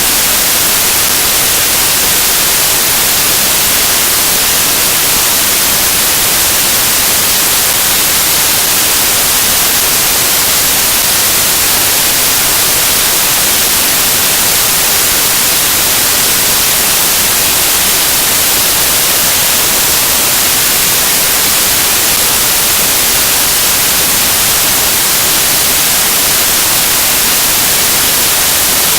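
Loud, steady static hiss like white noise, brightest in the treble, with no other sound. It does not change at all.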